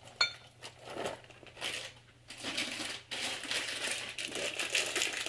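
Almonds going into a salad: a sharp clink just after the start, then crinkling and rustling in uneven stretches.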